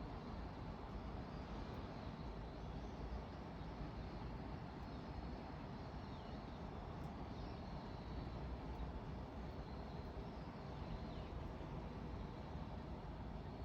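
Steady low background noise with faint high chirps now and then.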